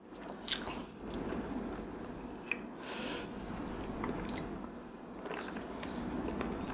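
Close-miked chewing and lip-smacking of a person eating, with scattered sharp wet mouth clicks, the loudest about half a second in and again about two and a half seconds in.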